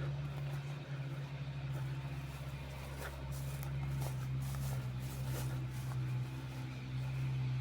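An engine running steadily at an even, low pitch, with a few light clicks and crackles over it.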